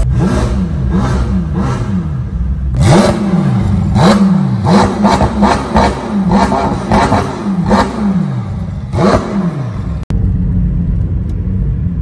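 McLaren 720S twin-turbo V8 revved repeatedly in neutral: a rapid series of throttle blips, each rising and then falling away. Near the end it cuts to a steadier engine drone.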